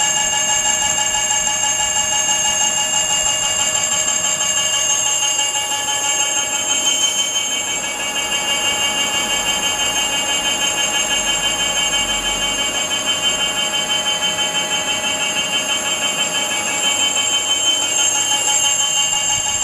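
Brushless gearless e-bike hub motor spinning at a steady speed, giving a loud, even high-pitched electric whine made of several tones.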